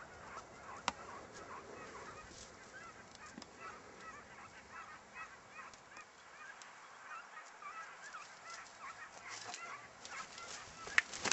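Hunting hounds baying faintly in the distance while running a hare: many short rising-and-falling calls overlapping one another.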